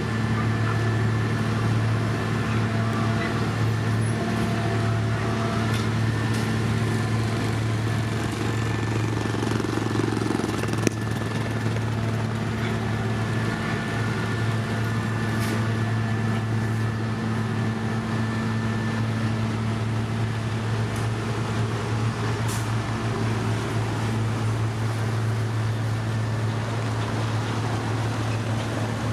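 Heavy construction machine's engine running steadily with a deep, even drone. There is a single sharp knock about eleven seconds in.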